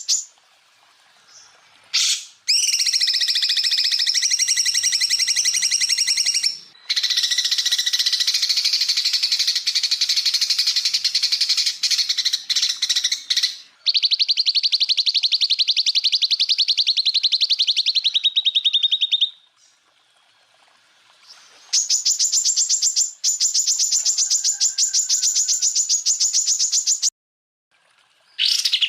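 Green leafbird (cucak ijo) singing rapid-fire trills, the fast rattling 'tembakan' phrases, in bursts of several seconds each. There are about five such phrases, some ending on a lower, slower rattle, with short silences between them.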